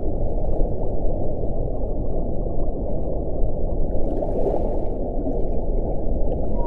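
Wind blowing steadily with a deep, low rumble, and a brief hissier gust about four seconds in.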